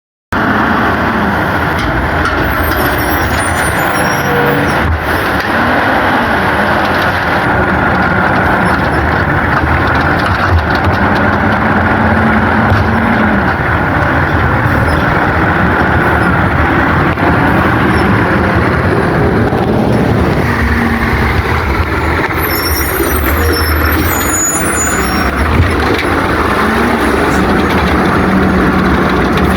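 Autocar refuse truck's diesel engine revving up and down repeatedly, run at raised revs to drive the Amrep body's hydraulic packer compacting a load of trash. The sound stays loud and steady in level throughout, with the engine pitch climbing and falling several times.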